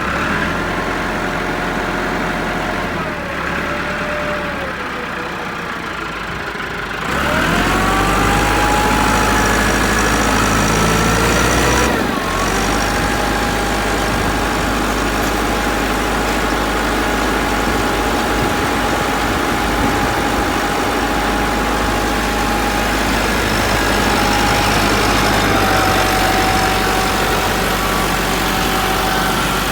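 Tractor engine running steadily, revving up about seven seconds in and then holding at a higher, louder run.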